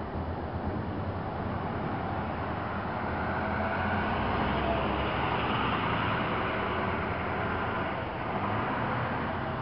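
A heavy fire truck driving past, its engine and tyre noise swelling to a peak midway and easing off near the end.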